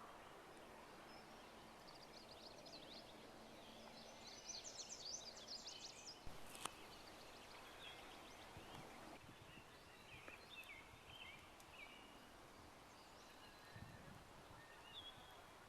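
Faint songbirds singing: several phrases of quick high chirps and trills, the busiest about a third of the way in, over a quiet outdoor hush. A single sharp click about halfway through.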